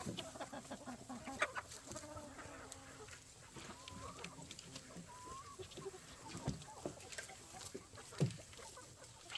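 Chickens clucking, with a few short calls and several sharp knocks or taps, the loudest about a second and a half in and again near the end.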